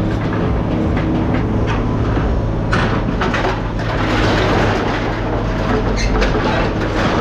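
Heavy machine engine running steadily, with metal rattling and clanking joining in about three seconds in.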